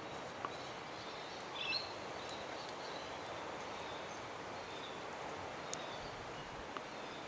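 Steady outdoor background hiss with one short, faint bird call about a second and a half in and a few faint ticks.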